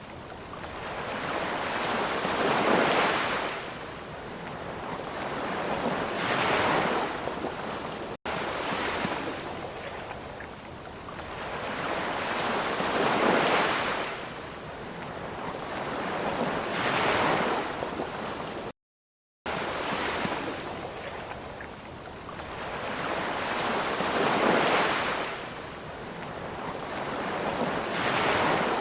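Ocean waves breaking and washing on a shore, the surf swelling and fading in repeated surges a few seconds apart. The sound cuts out completely for under a second about two-thirds of the way through.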